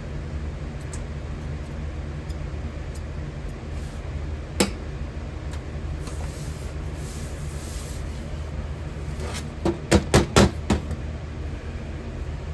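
Steady low rumble of a copper-melting furnace running. A single sharp knock comes about four and a half seconds in, and a quick run of about five knocks near ten seconds.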